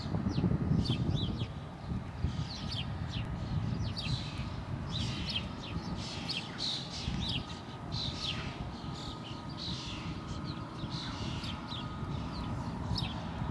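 Birds chirping repeatedly in short, high, falling calls over a steady low rumble.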